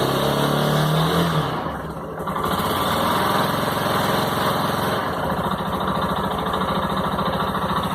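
Suzuki TU250X's single-cylinder four-stroke engine running just after a cold start, still cold. The revs rise briefly, dip about two seconds in, then settle into a steady, evenly pulsing idle.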